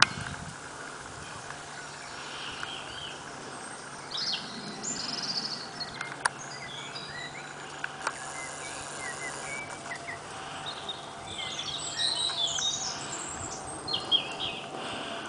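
Birds chirping outdoors in short scattered bursts, busiest about four seconds in and again near the end, with a couple of sharp clicks and a faint steady low hum under them.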